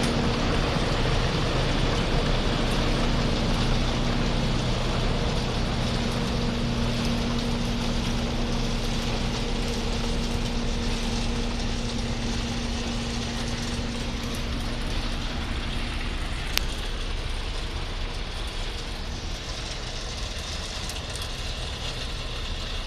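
A railway construction machine's engine running steadily with a low drone that fades after about fifteen seconds, and a single sharp click a little later.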